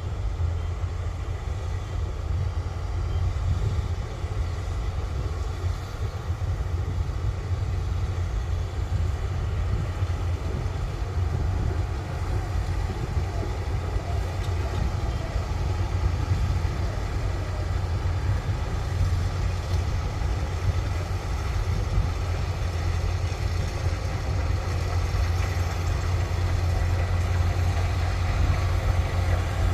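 Kubota rice combine harvester's engine running steadily, a constant low drone with machinery noise over it.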